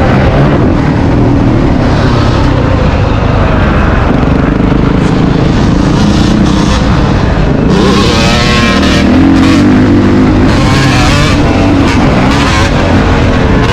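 Motocross dirt bike engine running loud and continuously, its pitch rising and falling with the throttle, with the most revving in the second half.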